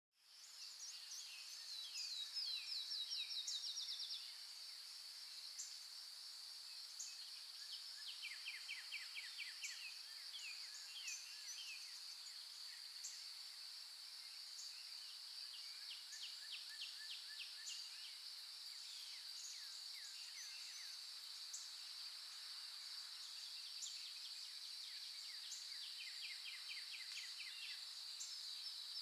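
Nature ambience fading in at the start: a steady high-pitched insect drone with birds calling in quick repeated chirping trills over it, the loudest trill in the first few seconds.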